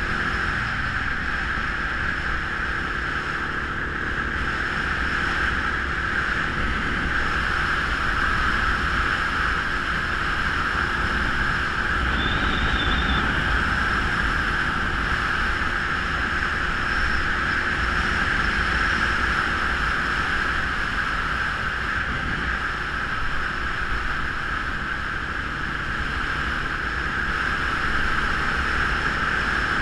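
Motorcycle ridden at a steady speed: engine and rushing air make an even, unbroken noise.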